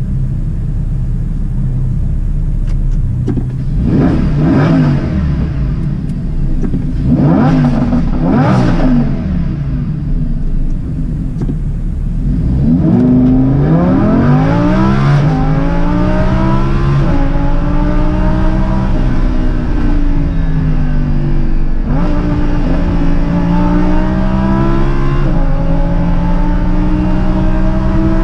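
Lamborghini Huracan LP610-4's naturally aspirated V10 blipped three times, each rev rising and falling quickly from idle. Then it accelerates hard, the pitch climbing and dropping back at several gear changes.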